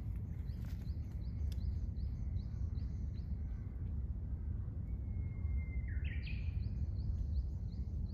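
Steady low outdoor rumble with a small bird calling over it: a run of short high chirps, about two or three a second, then near the end a held note that breaks into a rising call before the chirps resume.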